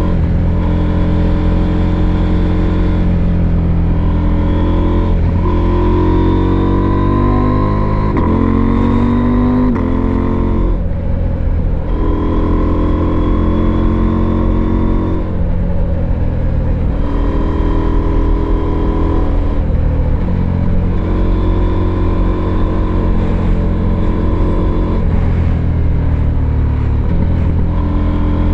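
Husqvarna Norden 901's 889 cc parallel-twin engine running under way, mostly at a steady pitch. The engine note rises steadily for about four seconds a quarter of the way in as the bike accelerates, then drops back sharply. Smaller pitch changes come every few seconds.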